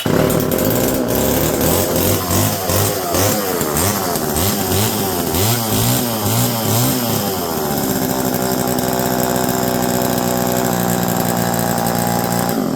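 Homelite EZ two-stroke chainsaw running with the choke off, its engine speed rising and falling in repeated revs, then holding steady until it shuts off suddenly at the end. The chain is being run round the bar to free it up, and the rust stuck between its links breaks loose.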